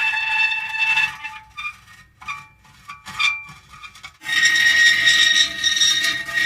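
Metal creaking: drawn-out high-pitched squeals sounding at several pitches at once. About a second in they break into short, scattered squeaks for about three seconds, then a long squeal starts up again.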